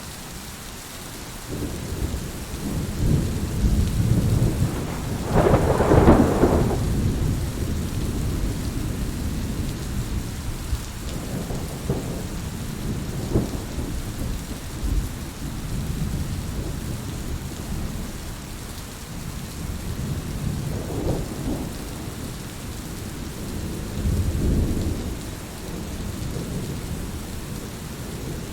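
Heavy rain falling steadily, with thunder rumbling in the background: a rumble builds over the first few seconds to a loud peal about six seconds in, followed by several fainter rolls later.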